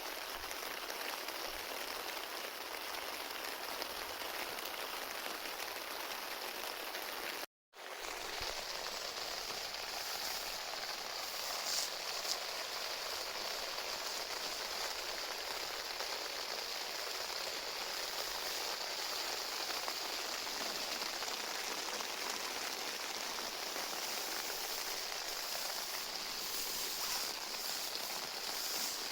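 Steady rain falling, a continuous even hiss with no single drops standing out. It breaks off for a moment about a third of the way through at an edit cut, then carries on unchanged.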